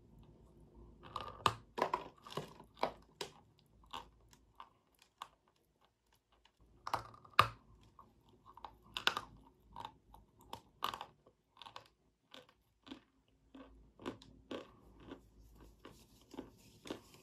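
Close-miked biting and crunchy chewing of a powdery white chalk-like block. Loud crunching bites come about a second in and again around seven seconds, after a short lull, followed by a long run of smaller crunching chews.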